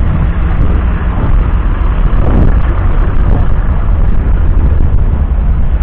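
A 1976 Kenworth W900's 14.0-litre six-cylinder diesel engine running with a steady low rumble, with a brief rise and fall in pitch about two seconds in.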